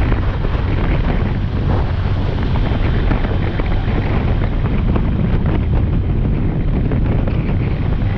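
Wind buffeting the microphone of a motorcycle underway at road speed, a steady, heavy low rush with no break.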